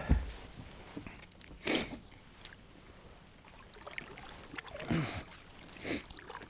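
Three short water swishes and splashes around a kayak, about a second and a half in and twice more near the end.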